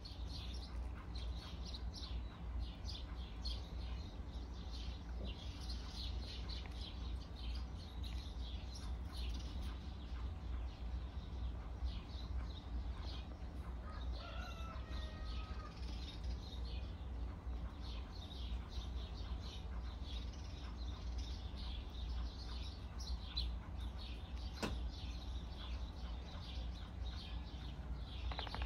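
Garden birds chirping in many short, quick calls, over a steady low hum.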